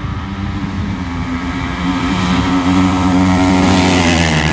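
450 dirt bikes running at high revs, getting louder over the first three seconds and loudest near the end, as on a pass.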